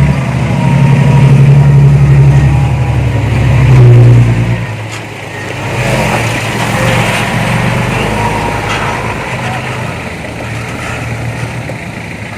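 Heavy earthmoving machine's diesel engine working hard, loud for the first four seconds or so with a rise in pitch near the end of that stretch, then easing off to a quieter steady run.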